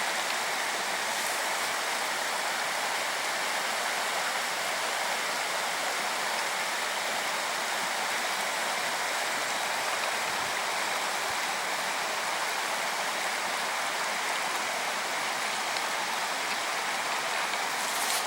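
Steady rushing of a mountain stream, an even hiss of water with no break.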